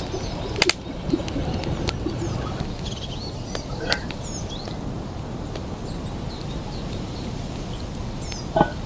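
Small birds chirping now and then over a steady rushing background noise, with a few sharp clicks in the first seconds and a brief louder call near the end.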